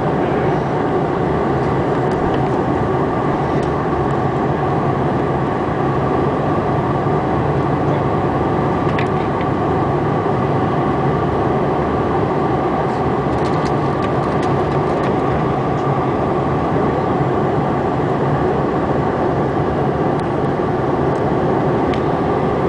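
Steady cabin noise of a CRJ-700 jet in flight: a constant rumble from its rear-mounted turbofans with a steady whine near the top, and a few faint clicks about nine and fourteen seconds in.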